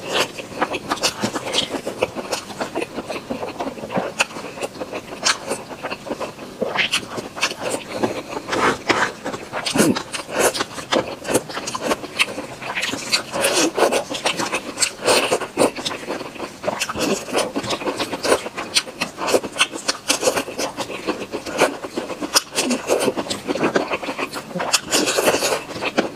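Crispy cream puffs being chewed close to a clip-on microphone: a dense, continuous run of crunching and crackling bites with wet mouth sounds.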